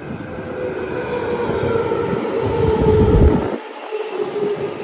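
Electric commuter train running past, its motor hum and wheel noise growing louder, with rapid wheel clatter on the rails near the peak. About three and a half seconds in the sound drops abruptly to a quieter run of the train beside the platform.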